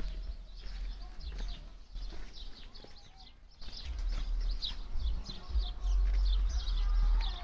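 Small birds chirping rapidly and repeatedly, busier and louder after a brief lull about halfway through, over a low rumble.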